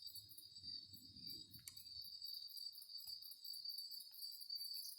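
Insects chirping steadily in a continuous high chorus, with a few faint clicks and a soft low rumble in the first second or so.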